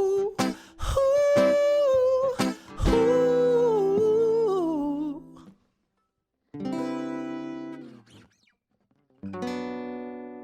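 Acoustic guitar music with a voice holding a wavering melody line over strummed chords, stopping about five and a half seconds in. After a short silence, two single strummed guitar chords are each left to ring and fade out.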